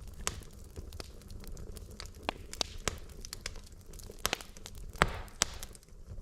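Wood logs burning in a fireplace: a low steady rumble of flame with irregular sharp crackles and pops, the loudest cluster of pops about five seconds in, followed by a brief hiss.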